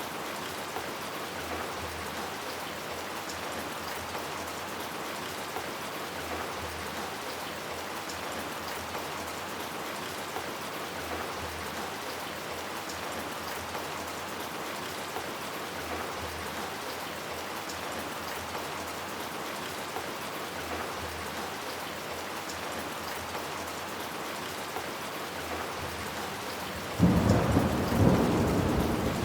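Steady rain falling. Near the end a sudden loud thunderclap breaks in and rumbles on.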